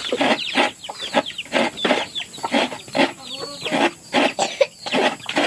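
Chickens clucking: a dense, unbroken run of short calls, several a second.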